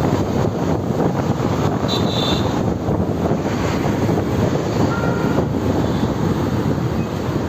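Steady wind rush on the microphone and road and traffic noise from a motorbike ride in motion.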